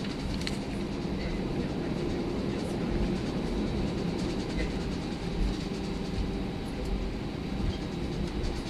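Steady cabin rumble inside an Airbus A319 with its engines running, a dense even noise with a low hum and a few faint clicks and rattles.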